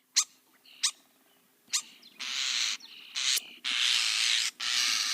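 European starling calling: a few short, sharp whistled chirps, then a run of harsh, rasping calls, each under a second long.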